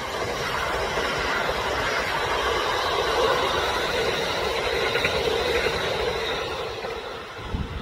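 Train running past on the rails: a steady rush of wheel and running noise that swells, holds, then fades away, with a short low thump near the end.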